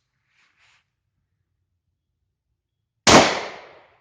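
A single 9mm pistol shot from a P.08 Luger about three seconds in, sharp and loud, fading away over most of a second. A couple of faint handling clicks come about half a second in.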